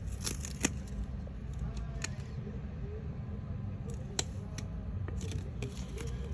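Scissors cutting paper or thin card, a scattering of separate snips and clicks over a low background rumble.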